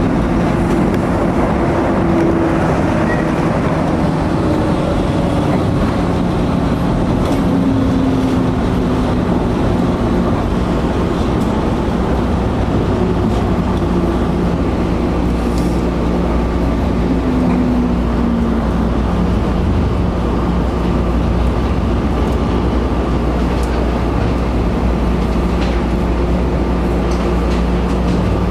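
Running noise of an Osaka Loop Line electric commuter train heard inside the carriage: a steady rumble of wheels on rail with a low hum, and now and then a short falling tone as the train slows into a station.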